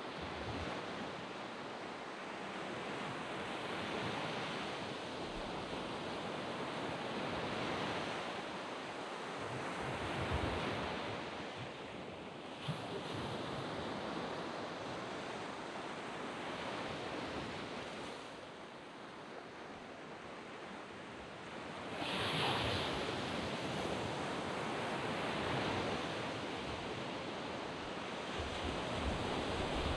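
Sea waves breaking and washing up a sand beach: a continuous rush of surf that swells and ebbs every few seconds. One wave surges loudest about two-thirds of the way through.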